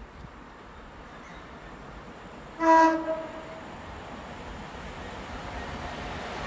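A train horn sounds one short blast about two and a half seconds in, over the low rumble of a train that grows steadily louder as it approaches.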